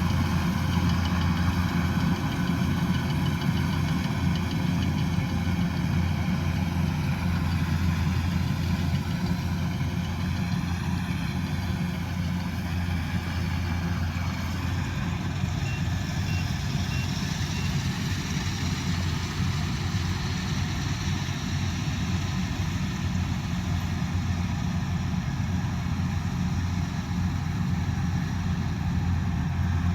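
Combine harvester's engine running steadily, with a slight wavering in pitch about ten seconds in.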